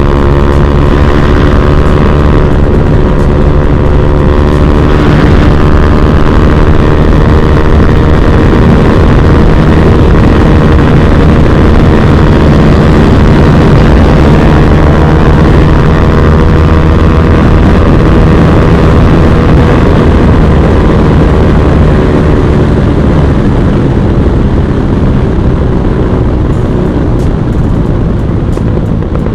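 Bajaj Pulsar NS200's single-cylinder engine running through an Akrapovic exhaust, held at a steady cruise with an even note, easing slightly near the end.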